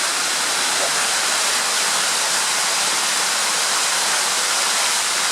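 Steady rush of water flowing through a flooded underground tunnel, an even hiss that does not let up.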